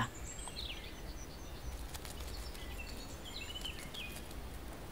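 Outdoor ambience with small birds chirping faintly now and then, short high chirps and twitters, over a steady low rumble.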